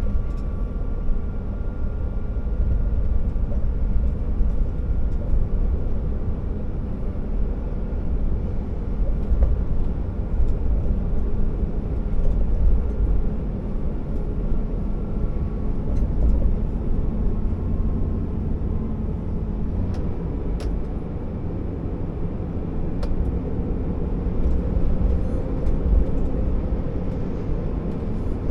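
Scania R650 timber truck under way, its V8 diesel engine running steadily with a deep, even rumble and faint engine tones above it, and a few light clicks.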